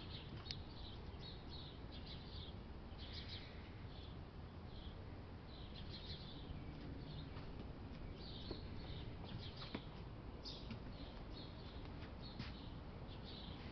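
Small birds chirping: short, high chirps repeated irregularly throughout, over a low, steady outdoor background rumble.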